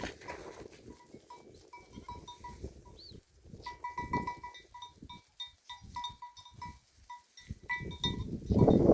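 A flock of sheep bleating, with small bells ringing over and over in short repeated notes. It grows louder near the end.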